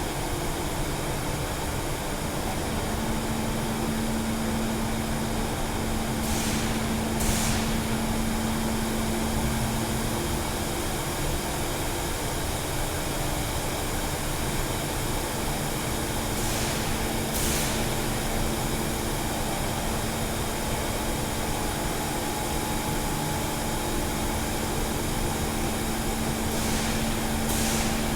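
A truck's motor or machinery running steadily with a constant hum, and a brief hiss a few times.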